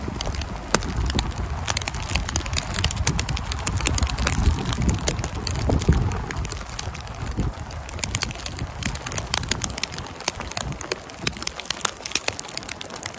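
Heavy rain, with many single drops ticking sharply and irregularly close to the microphone, over a low wind rumble on the microphone that eases about two thirds of the way through.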